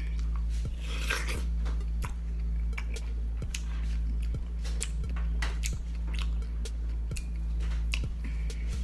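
Close-up chewing of soft white-fleshed dragon fruit: wet, squishy mouth sounds with many short clicks and smacks, over a steady low hum.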